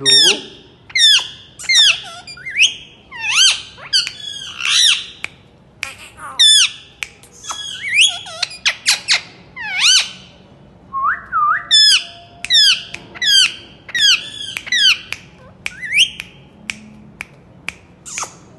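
Green parakeet calling with a long run of harsh squawks, about one a second, each call sweeping up and down in pitch.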